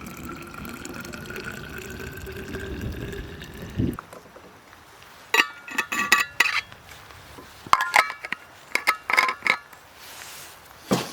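Water poured into a vessel, the pitch rising steadily as it fills, stopping sharply about four seconds in. Then come bursts of ringing metal clinks from cookware, and a single thump near the end.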